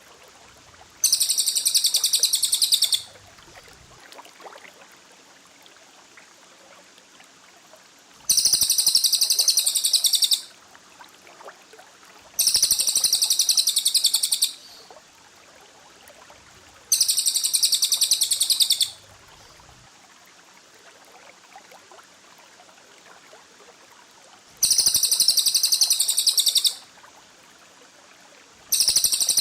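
A small bird's sharp, rapid trill, sung in bursts of about two seconds and repeated six times with pauses of a few seconds between them.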